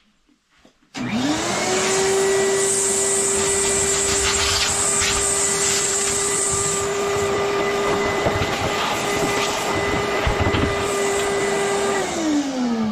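Vacuum cleaner working a dryer vent hose attachment, switched on about a second in. Its motor whine climbs quickly to a steady pitch over a loud rush of air, holds for about eleven seconds, then falls away as it is switched off and spins down near the end.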